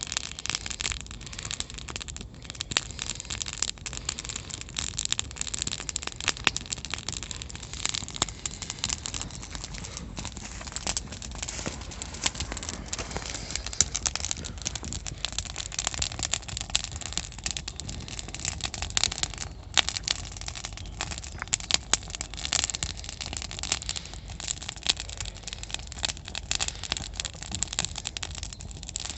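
Wood campfire crackling and popping, with many irregular sharp snaps over a steady low rumble.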